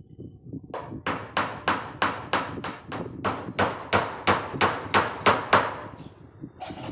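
A hammer struck steadily, about three blows a second, some sixteen sharp strikes in a row before it stops.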